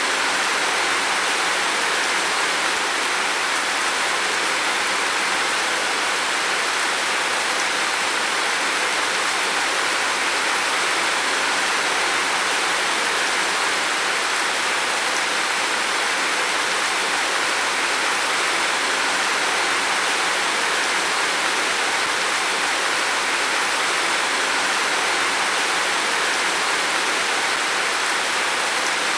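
Heavy rain falling steadily on a roof, a dense, even hiss with no breaks.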